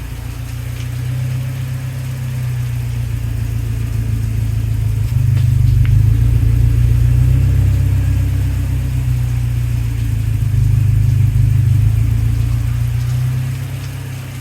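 Saab 900 SPG's turbocharged 2.0-litre 16-valve four-cylinder running as it warms up after a cold start. It grows louder about five seconds in and drops off near the end, and it sounds healthy.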